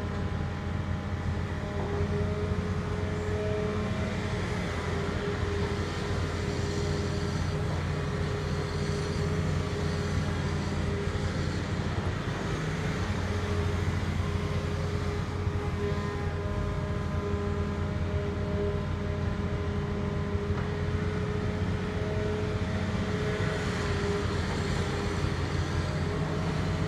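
Heavy engine running steadily: a deep, even hum with faint whining tones held above it.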